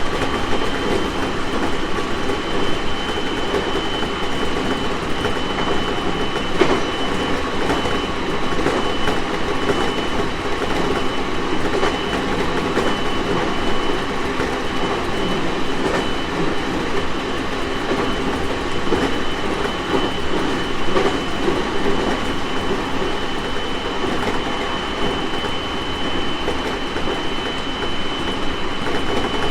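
JR East 701 series 1000-subseries electric train running at a steady speed, heard from inside the car: a continuous rumble of wheels on rail with a steady high-pitched tone. Now and then a wheel knocks over a rail joint, most clearly about six and a half seconds in.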